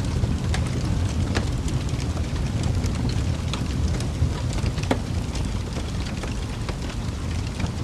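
Wood fire burning in a fireplace: a steady low rumble of flames with scattered sharp crackles and pops at irregular times, one louder pop about five seconds in.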